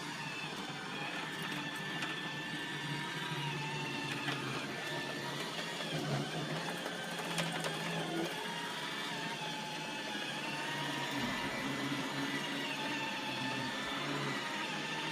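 iRobot Roomba 880 robot vacuum running as it cleans carpet: a steady motor and brush drone with a whine that wavers slightly in pitch.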